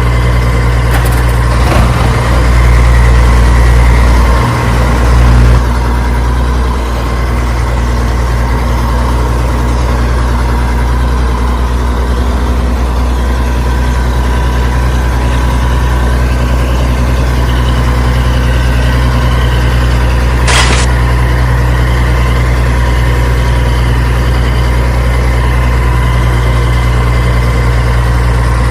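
An engine idling with a steady hum, louder for a few seconds near the start, with a short sharp click about two-thirds of the way through.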